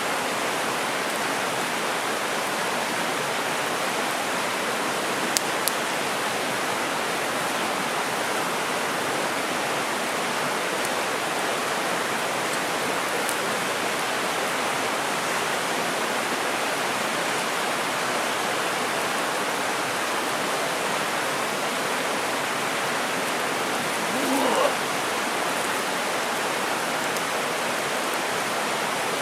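Mountain stream rushing steadily. Two sharp clicks come about five seconds in, and a short pitched sound rises briefly near the end.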